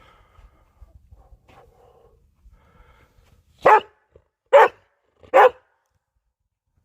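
A dog barking three times, short sharp barks a little under a second apart.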